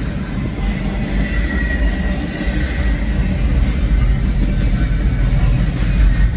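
Double-stack intermodal container freight train rolling past: a steady low rumble of wheels on rail, with a faint high wheel squeal strongest from about one to two seconds in.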